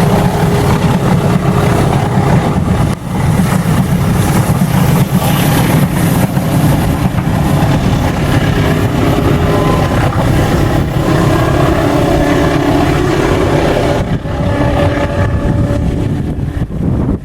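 Diesel locomotive engine rumbling loud as a train runs past, a deep, steady drone with a brief dip about three seconds in.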